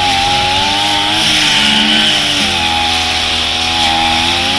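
Brush cutter engine running at high throttle with a metal cutting blade, a steady buzz whose pitch wavers slightly as it works through thick, dense grass.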